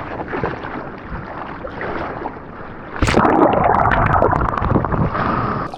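Seawater splashing and rushing with wind on the microphone. It grows much louder about three seconds in.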